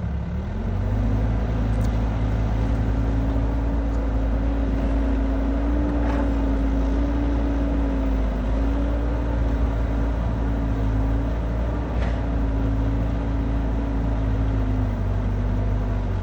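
Kubota DC70 rice combine harvester's diesel engine running steadily under working load; its pitch climbs about a second in and then holds.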